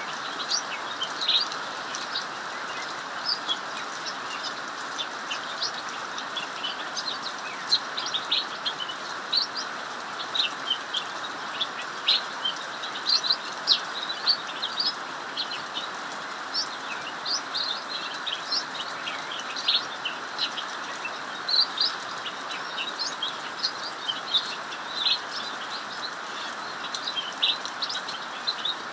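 A cucak mini songbird singing nonstop in quick, sharp chirps, over the steady hiss of heavy rain falling.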